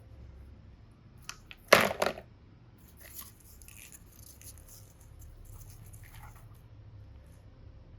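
Crinkling and crunching handling noises, with one loud crackling burst about two seconds in and a few fainter rustles after it.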